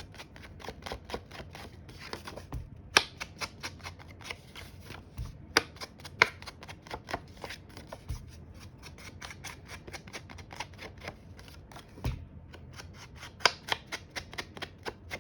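Cardstock edges being distressed: a tool scraped over and over along the paper edge in quick rasping strokes, several a second, with short pauses. A few dull knocks on the table come in between.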